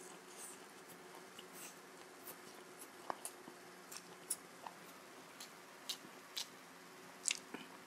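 A person chewing a mouthful of chowmein noodles: a scattering of faint, short, wet mouth clicks over a faint steady hum.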